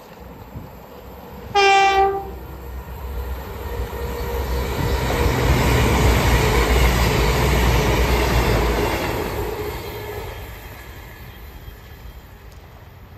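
CrossCountry Voyager diesel train sounding one short horn blast, a warning as it nears the foot crossing, then passing close by. Its running noise builds to a peak, then fades as it moves off.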